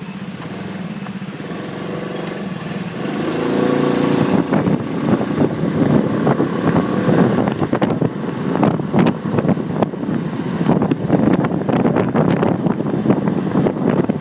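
Motorcycle engine running at low revs, then revving up about three seconds in as the bike pulls away. After that it keeps running under choppy wind buffeting on the handlebar-mounted phone's microphone.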